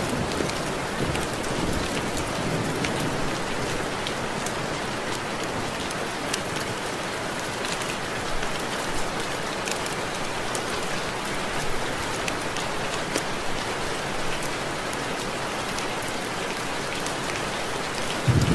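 Steady rain with many separate raindrops ticking against window glass.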